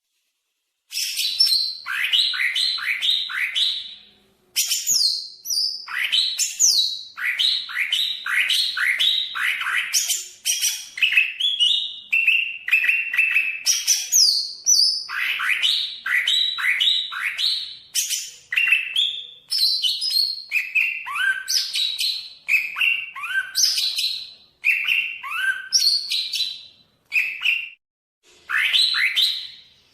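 Greater green leafbird (cucak ijo, Banyuwangi variety) singing a fast, varied song of quick downward-sweeping whistled notes in rapid runs, with a couple of short pauses.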